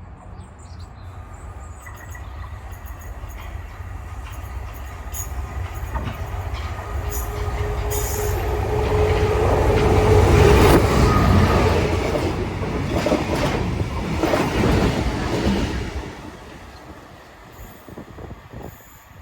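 Train passing: the rumble of the train and its wheels on the rails builds to a peak about ten seconds in, with a steady whine partway through, then falls away sharply near the end.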